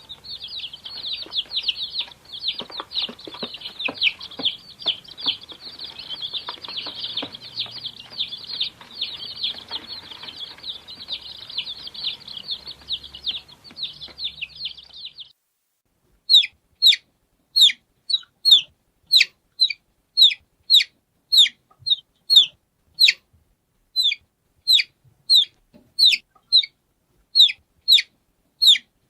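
Baby chicks peeping. For about the first fifteen seconds many chicks cheep together in a dense, continuous chorus. It then cuts to clear, separate high peeps, each falling in pitch, about one or two a second.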